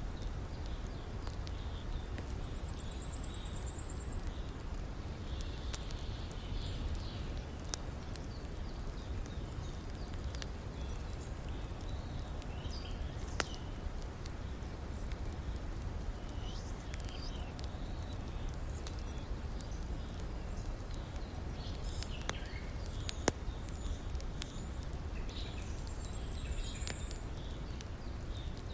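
Campfire crackling with occasional sharp pops over the steady low rush of a river. A short high trill sounds briefly near the start and again near the end.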